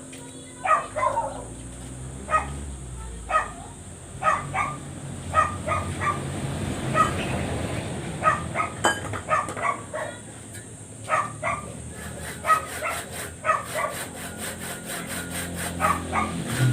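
A dog barking again and again, in short barks singly or in quick pairs and threes, about one burst a second. A low engine rumble builds under the barks near the end.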